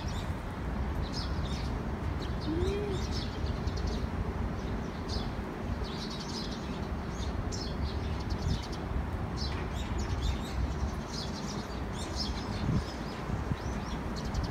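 Small birds chirping: many short, high chirps come and go over a steady low background rumble.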